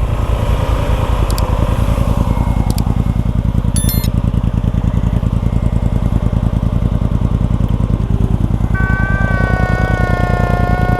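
Suzuki V-Strom 250 SX's single-cylinder engine running at low revs with an even, rapid chugging beat as the bike rides slowly over rough trail. A steady higher-pitched tone joins near the end.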